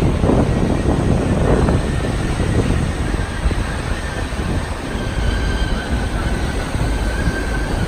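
Royal Gorge Route passenger train running on the rails: a steady rumble with wind on the microphone. A faint high steady squeal, typical of wheels in a curve, comes in about three seconds in.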